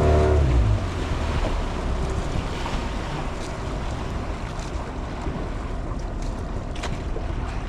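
A boat's engine drops in pitch and dies away within the first second, leaving wind buffeting the microphone over the wash of the sea.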